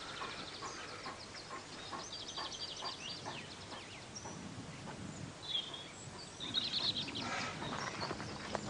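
Small birds chirping, with several rapid high trills and short chirps over a faint steady background hiss.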